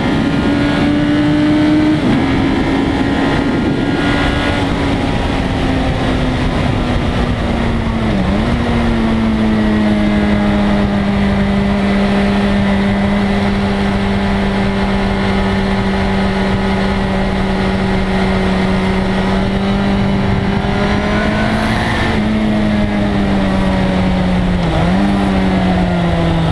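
1997 Suzuki GSX-R1100 inline-four engine running on track under heavy wind rush. Its pitch drops sharply at gear changes about 2 and 8 seconds in, holds steady for a long stretch at constant throttle, then rises abruptly, dips again, and falls away near the end.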